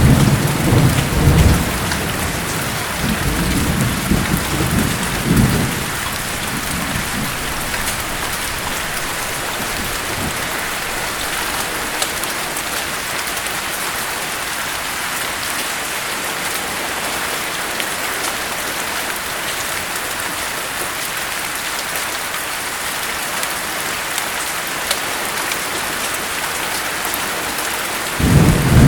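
Steady heavy rain hissing, with thunder rumbling low and heavy for about the first six seconds, then rain alone until the thunder rolls in again near the end.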